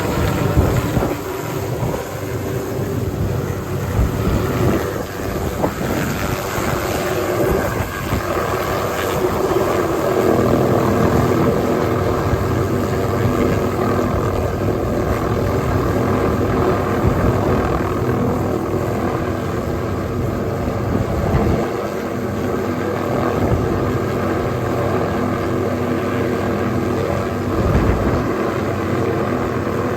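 Hughes 369D helicopter running close by: a steady turbine whine and rotor noise that hold throughout.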